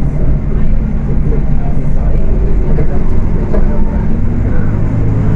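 Volksbus 18.280 OTS city bus engine running under way, heard from inside the bus, with a steady low note that rises a little in pitch in the second half.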